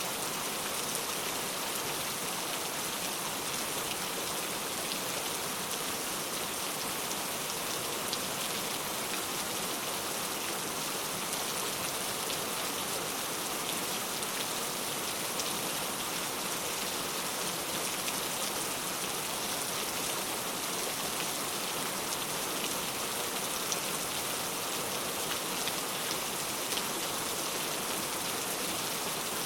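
Steady rainfall, a continuous hiss of drops with a fine patter, unchanging throughout.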